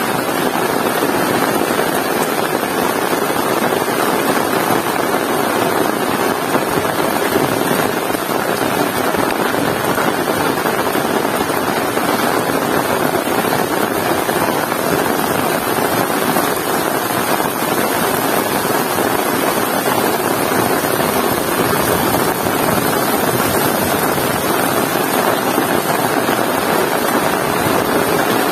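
Heavy rain falling steadily, a loud, even downpour.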